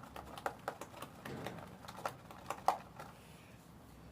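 Homemade slime being stirred as it begins to thicken, making quick, irregular sticky clicks and pops that thin out after about three seconds.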